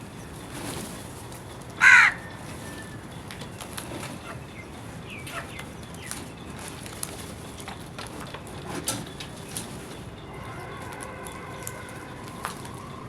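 A crow gives one loud, short caw about two seconds in, over scattered light taps and rustles. A faint steady tone comes in near the end.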